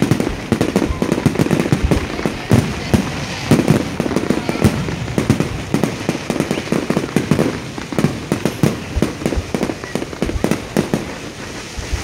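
Fireworks display: aerial shells bursting overhead in a dense, rapid run of bangs that overlap one another, slightly thinning toward the end.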